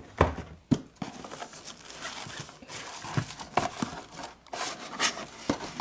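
Packaged die-cast toy cars being handled: crinkling plastic and card with many sharp clicks and taps.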